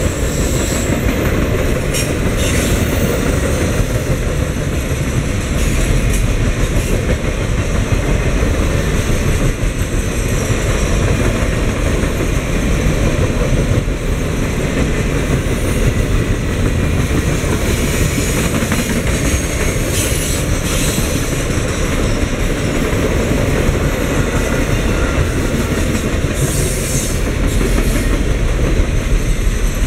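Triple Crown RoadRailer highway trailers on rail bogies rolling past: a steady, loud rumble of steel wheels on rail, with a few brief high-pitched squeals.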